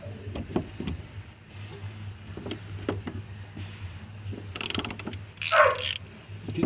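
Hand tools knocking and clinking during fuel pump replacement work, with a ratchet wrench clicking quickly about four and a half seconds in, over a low steady hum, followed by a short loud burst.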